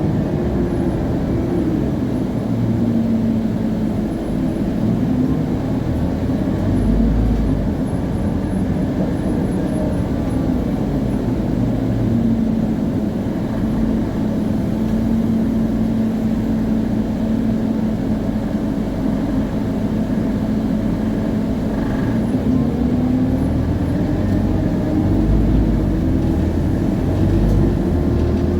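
Scania CN280UA city bus under way, its Scania DC9 diesel running under a ZF Ecomat automatic, with the drive axle (differential) whining clearly. The whine follows road speed: it drops in pitch over the first few seconds, holds steady through the middle, and rises again near the end.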